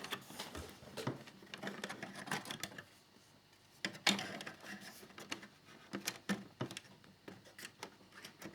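A plastic fairing piece of a scale model motorcycle being handled and pressed into place: irregular light clicks and taps with rustling, and a louder rustle about four seconds in.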